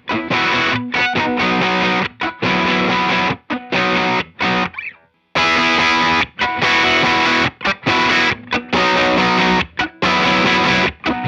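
Electric guitar playing a riff through a JHS Kilt overdrive pedal with its G2 gain switch on, into a Walrus Audio ACS1 amp simulator, giving a distorted tone. The chords are cut off short in a rhythmic pattern. About five seconds in, one chord rings out and fades to a brief silence before the riff starts again.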